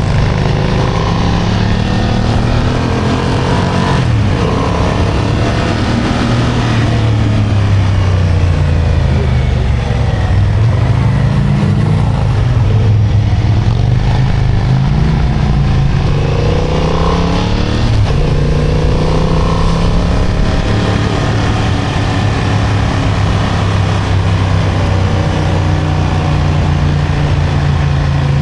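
Motorcycle engine under way, its pitch climbing and dropping several times as the rider accelerates and eases off through winding bends, then running steadily at a constant pitch near the end.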